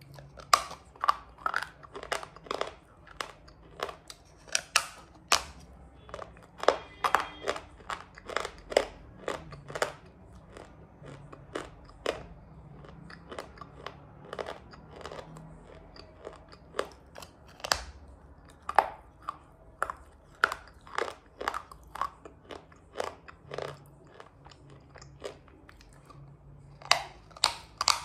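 Biting and chewing a chunk of crunchy shale: a long run of crisp, irregular crunches, with loud bites early on and again in a cluster near the end.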